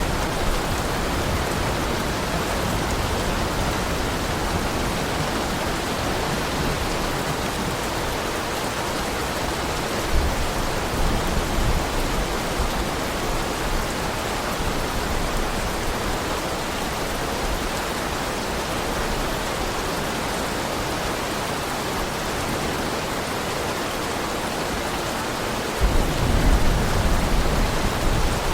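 Heavy rain falling in a steady hiss. Low rumbles of thunder come in about ten seconds in and again near the end.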